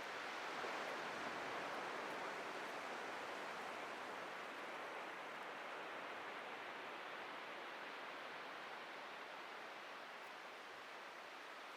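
Atlantic surf washing on a beach: a steady hiss of breaking waves that swells in the first couple of seconds and slowly eases off.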